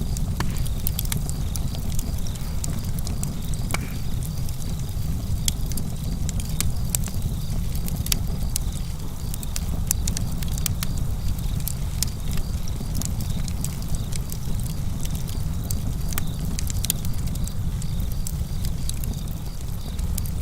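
Wood fire burning with a steady low rumble and frequent sharp crackles and pops. Crickets chirp steadily in a high, pulsing band behind it.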